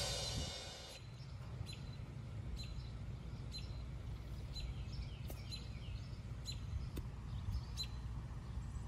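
Outdoor ambience with a low steady rumble, and a small bird chirping over and over: short high chirps, each dropping briefly in pitch, about one or two a second. A fading rush fills the first second.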